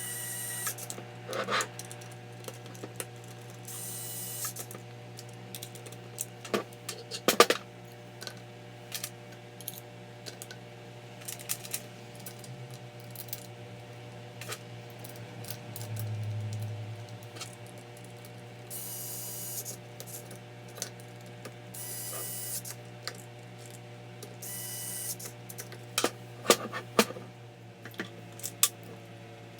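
Hand work with tools and small parts: scattered clicks and knocks, a few short hisses of about half a second each, and a steady low hum underneath.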